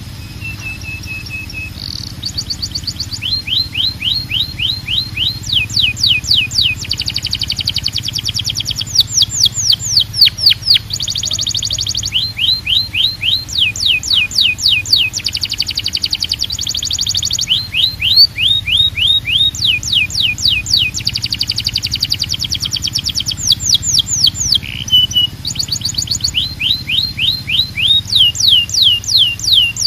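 Canary singing a long, unbroken song of rapid trills. Each phrase is a fast run of the same sweeping note repeated many times a second, lasting one to two seconds before the bird switches to a new note, and it opens with a short steady whistled note.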